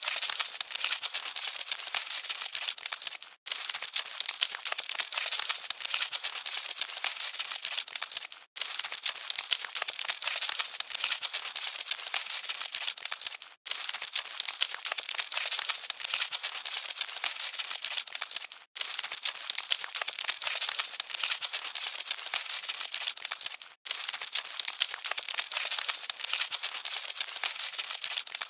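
Cockroaches scuttling: a dense, fine crackling and scratching with no low end, breaking off for a moment about every five seconds.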